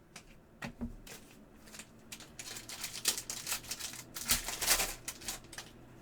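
2024 Panini Prizm football cards being handled and flipped: a run of quick clicks and short sliding strokes, thickest through the middle and later part.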